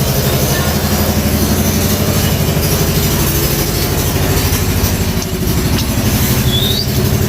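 Diesel engine of a concrete mixer running steadily at a constant speed, with a fast even throb, while a roof slab is being poured.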